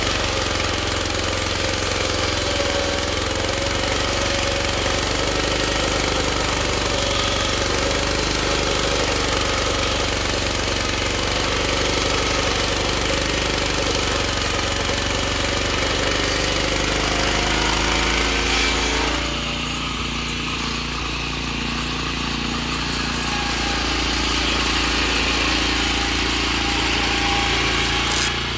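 Petrol-engine-driven disc sawmill running while sawing green aspen, a steady mechanical din of engine and circular blade. About 19 seconds in, the sound thins and drops slightly in level as the engine carries on.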